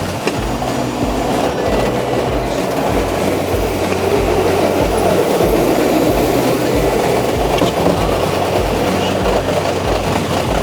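New York City Subway A train running at speed between stations, a steady loud rumble of wheels on rails.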